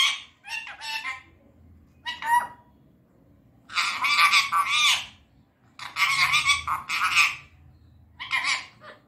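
Indian ringneck parakeet calling and chattering in about five short, raspy bursts separated by brief pauses, the longest lasting a little over a second.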